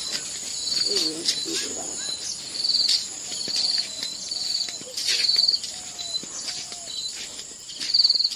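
Crickets chirping in short trilled chirps, roughly one a second, over a steady high-pitched insect drone.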